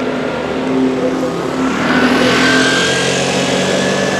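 A motor vehicle running, with a thin whine that rises slowly in pitch and a swell of rushing noise about two seconds in.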